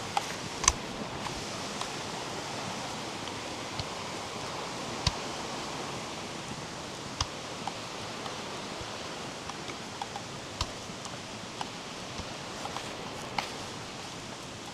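Footsteps on a forest trail, sparse irregular clicks and crunches, over a steady rush of flowing water.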